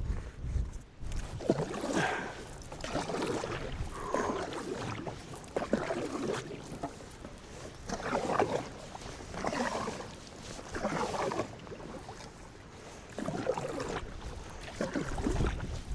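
Canoe paddle strokes swishing and splashing in the water, a stroke about every one and a half to two seconds, with some wind on the microphone.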